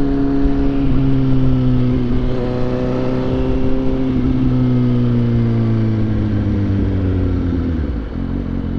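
Suzuki GSX-S750's inline-four engine running under way at a steady pitch, then slowly falling in pitch as the bike slows, with a short dip and change in the engine note near the end.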